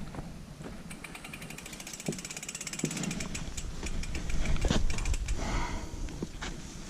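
Mountain bike rolling down a trail: the rear freehub ticks rapidly and evenly while coasting, over low tyre rumble, with a few sharp knocks from the bike over rough ground.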